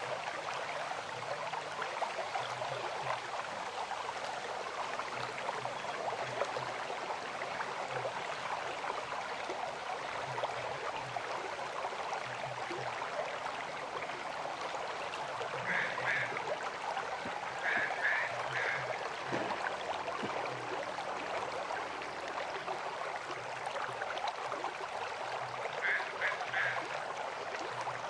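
River water flowing steadily. Short high animal calls break through three times, each a quick group of two or three notes.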